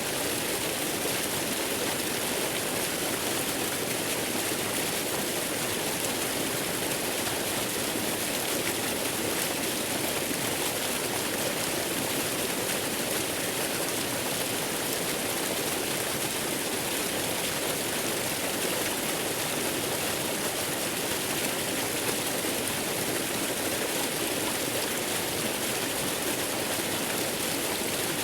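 Waterfall white noise: a steady, unchanging rush of falling water with a strong high hiss.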